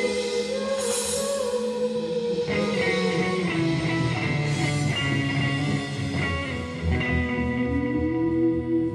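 Psychedelic rock band playing live: an instrumental passage of long held guitar notes over drums, the notes shifting slowly in pitch.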